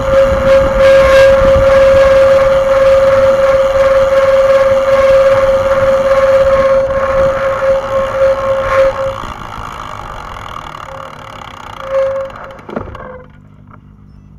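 SRAM RED E1 disc brake squealing: a loud, steady high-pitched tone that holds for about nine seconds, fades, returns briefly, and ends with a sharp click. The squeal is the abnormal brake noise being shown.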